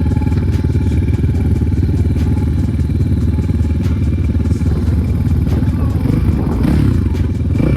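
Enduro motorcycle engines idling steadily while warming up.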